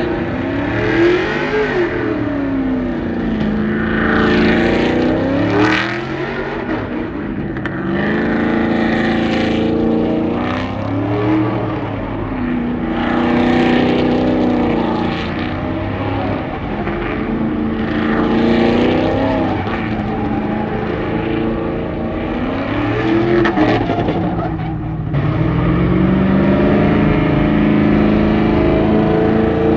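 Truck engine revved hard again and again during a burnout, its pitch climbing and falling back every few seconds, with a noisy hiss from the spinning tyres on each climb.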